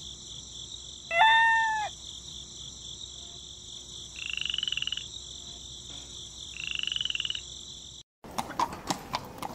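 Pond-and-farmyard ambience: a steady high chorus with two trilled frog croaks, and one loud short pitched animal call about a second in. The ambience cuts off suddenly near the end and gives way to short clattering sounds and chatter.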